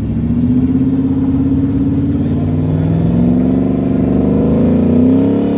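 High-performance pickup truck's engine revving hard under load, its pitch slowly climbing and peaking near the end, as the truck struggles for traction on a dirt climb; the crew puts the failure down to tires pumped too hard.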